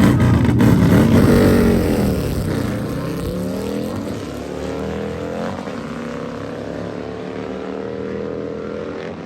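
Nitrous-fed chopper motorcycle engine running hard down the drag strip. It is loudest for the first two seconds, then fades as it pulls away, its pitch climbing in steps through the gears.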